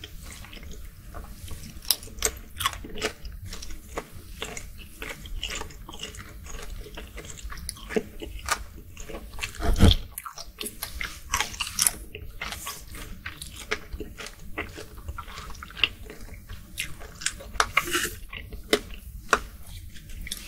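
Close-miked ASMR eating sounds: a person biting and chewing cooked shrimp, with many short mouth clicks and one loud bite about halfway through.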